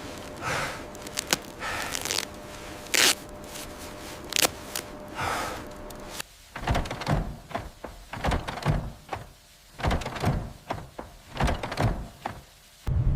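A run of irregular knocks and clunks, a few scattered ones at first, then coming thick and fast about halfway through.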